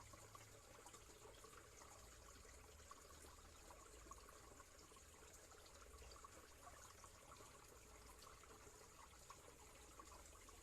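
Faint, steady trickling of stream water.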